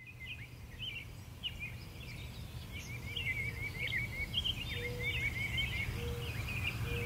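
Small birds chirping and twittering, with quick runs of repeated notes, over a low rumble, all fading in gradually.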